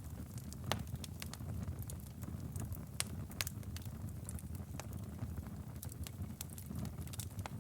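Wood fire crackling in a fireplace: irregular sharp pops and snaps of burning firewood over a steady low rumble of the flames, with a couple of louder pops, one just under a second in and one about three seconds in.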